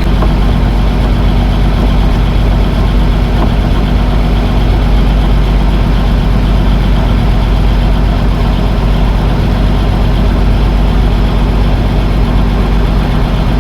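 Boat engine running steadily at a constant speed, a loud low drone.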